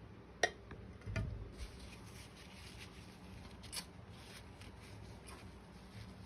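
A few soft clicks and light rubbing from a Chinese ink brush being worked in ink on a palette dish to prepare it for feathering strokes; the sharpest click comes about half a second in.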